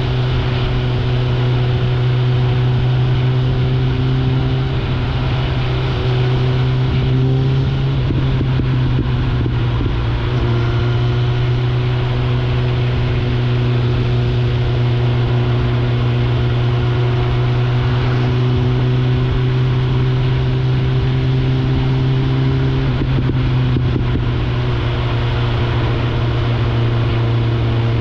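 Suzuki GSF 650 Bandit's inline-four through an Akrapovic exhaust, running at a steady cruise. Its note changes briefly a few times, around 8 to 10 seconds in and again near 23 seconds.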